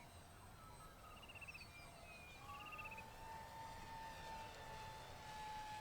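A quiet outdoor background of faint bird chirps and short trills. From about two and a half seconds in, a faint steady whine joins them.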